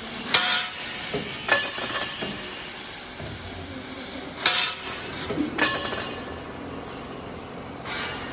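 A semi-automatic laser tube-cutting machine running with a steady hiss, with sharp metallic clanks of metal tubing about five times.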